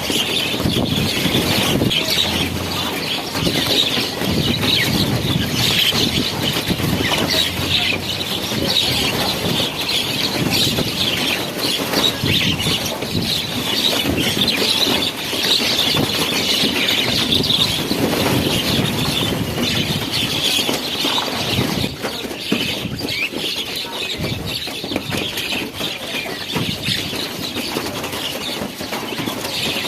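A large flock of birds calling all at once in a dense, continuous chatter, with a fluttering rush of many wings.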